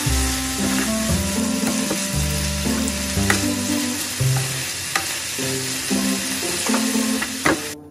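Sweet potato stems sizzling in a frying pan as they are stir-fried with a wooden spatula, the sauce nearly cooked down, with a few sharp knocks of the spatula on the pan. The sizzling cuts off suddenly at the very end.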